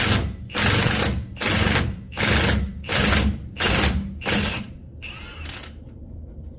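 Cordless impact wrench hammering in short trigger-pulled bursts, close to two a second, on a rusted-in rear axle part that has not been apart in 18 years and is hard to come out. A brief metallic squeal follows about five seconds in.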